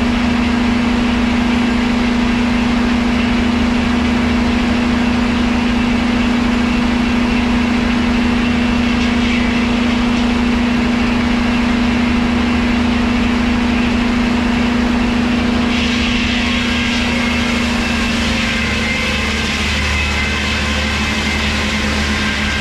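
Engine driving vintage sawmill machinery, running steadily with a strong low hum. About two-thirds of the way through, a higher-pitched hiss joins, and near the end the engine note drops slightly and takes on a pulsing beat.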